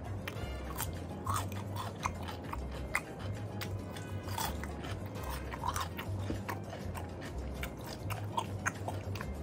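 Close crunching bites and chewing of a crisp raw green vegetable, with many sharp crackly crunches, over background music with a steady bass line.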